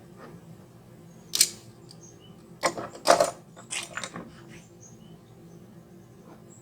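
A few sharp knocks and clatters: one at about a second and a half, then a quick cluster of four or five. Faint high chirping goes on underneath.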